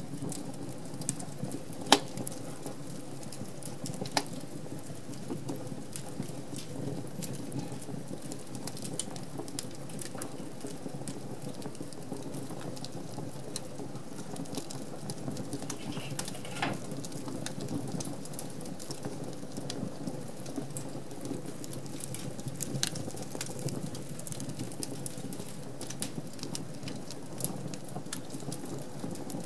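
Wood fire crackling in an open fireplace: a steady soft rush of flame with scattered sharp pops and snaps of burning logs, the loudest pop about two seconds in, and a brief hiss around the middle.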